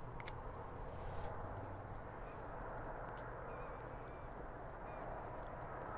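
Steady rain falling, an even hiss, with a few light ticks about a second in.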